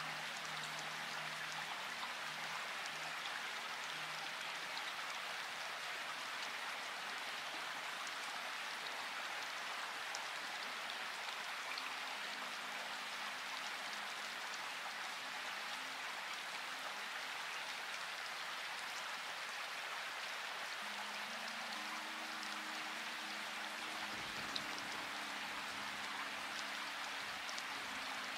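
Steady rain: a constant even hiss of falling rain with scattered individual drops ticking through it. A faint low hum comes and goes underneath.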